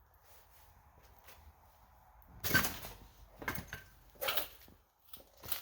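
A couple of seconds of faint room tone, then a few loud knocks and scrapes, starting about halfway in and repeating several times toward the end.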